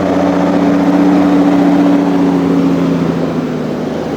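A motor vehicle engine running steadily; its pitch drops slightly and it gets a little quieter about two to three seconds in.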